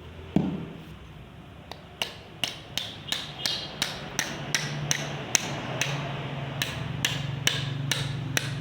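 Quick, light hammer taps on bamboo, about three a second, after a single thump near the start. A low steady hum comes in about halfway through.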